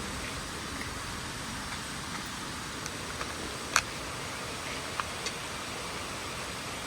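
A steady hiss with a sharp click a little before four seconds in and a smaller one about a second later.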